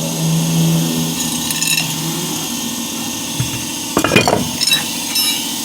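Metal clinks and clatter of tools and wheel parts being handled, loudest about four seconds in, over a steady low hum.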